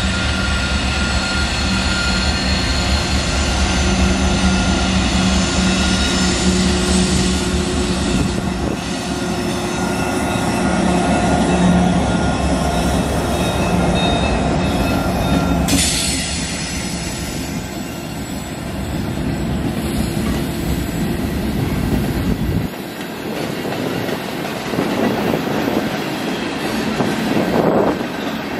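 Diesel freight locomotives passing close, their engines running with a heavy steady rumble, then freight cars rolling by with wheels clacking over the rail joints and squealing on the rails. A single sharp metallic clank sounds about halfway through, and the engine rumble drops away about two-thirds of the way in, leaving the rolling cars.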